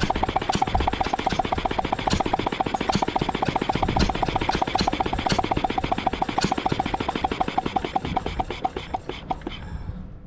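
Ruston & Hornsby 2PS petrol-engined air compressor running with a rapid, even beat, then slowing and dying away near the end as it stops.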